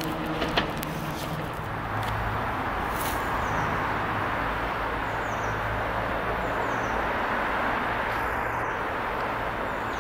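Class 170 Turbostar diesel multiple unit approaching: a steady low diesel engine drone under a wide rumble of wheels on rail.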